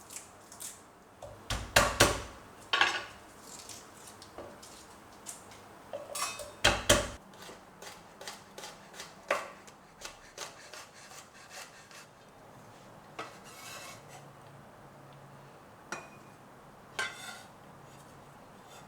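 Kitchen handling noises: a string of knocks, clinks and taps of utensils and containers being set down and moved, loudest in two clusters about two and seven seconds in, with lighter taps after.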